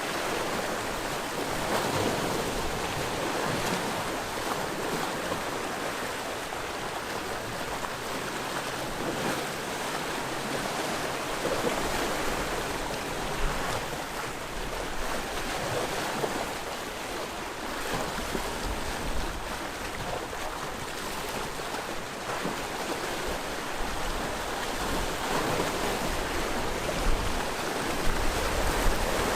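Sea waves washing against a rocky shore in a continuous wash of surf that swells and eases every few seconds, with gusts of wind on the microphone rumbling near the end.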